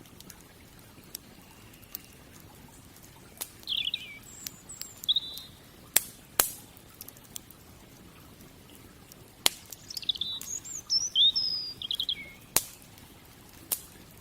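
Wood fire crackling, with scattered sharp pops of burning wood. Small birds chirp and sing in short high warbling phrases, a couple about four to five seconds in and a longer run in the second half.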